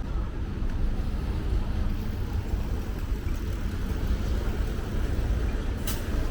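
City street ambience: a steady low rumble of traffic, with one sharp click near the end.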